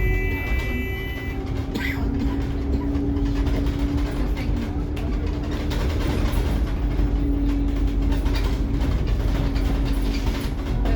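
Scania K360IB bus under way, heard from inside: steady engine and road rumble with a constant whine. An electronic tone of several high notes cuts off about a second in.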